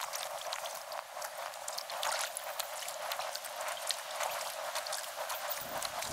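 River water splashing and trickling around a kayak, with many small splashes and drips from paddle strokes. It sounds thin, with no low end.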